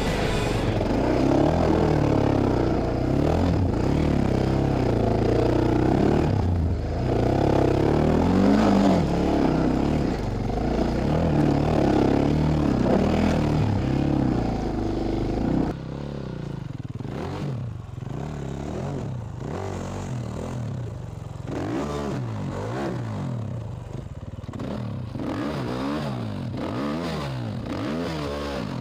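Dirt bike engine revving up and down repeatedly, with clattering and scraping. The sound drops abruptly a little past halfway, and a quieter engine keeps revving up and down after that.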